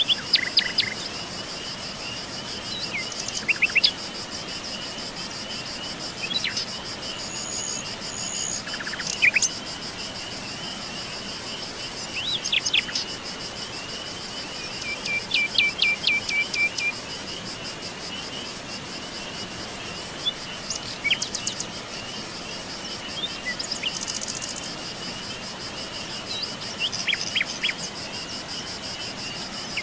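Songbirds calling and singing in short phrases of quick chirping notes every few seconds, over a continuous high insect trill and a steady background hiss.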